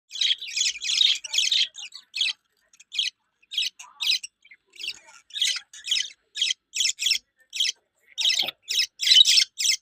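Budgerigar chirping: a steady string of short, high chirps, some bunched into quick runs.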